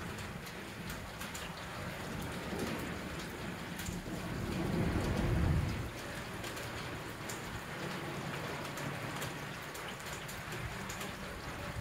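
Steady rainfall with scattered drops ticking. A low roll of thunder swells about four seconds in and dies away about two seconds later.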